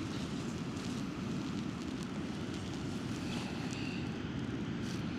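Steady wind buffeting a clip-on microphone, a low rumbling noise.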